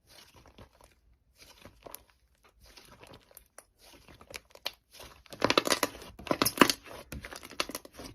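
Slime being pressed and squeezed by hand, a crackling run of small pops and clicks that gets busier and louder about five and a half seconds in.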